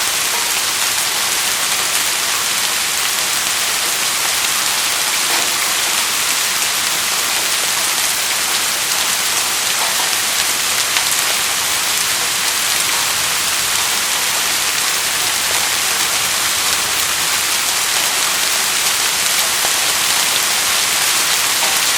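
Steady rain falling and pattering on surfaces, an even hiss with scattered individual drop hits.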